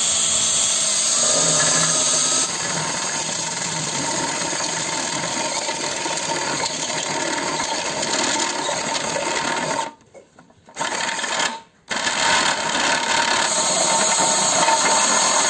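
Electric drill running steadily, boring the hole for the float valve in the humidifier tray. It cuts out twice, about two-thirds of the way through, once for nearly a second and once briefly, then runs again.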